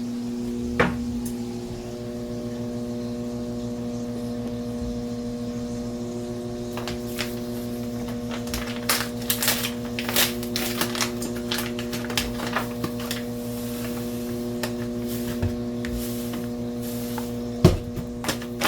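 A steady electrical hum from a kitchen appliance. From about seven seconds in, scattered crackling pops join it, from a steak spitting in a hot pan. Two sharp knocks come, one near the start and one near the end.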